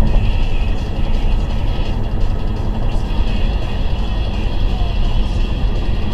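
Steady driving noise of a moving vehicle, engine and road rumble heard from inside, with no sudden impacts.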